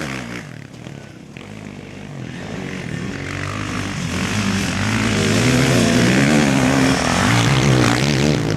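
Motocross motorcycle engines revving, the pitch rising and falling with the throttle. The engine sound fades after the start, then builds steadily louder from about three seconds in as a bike approaches.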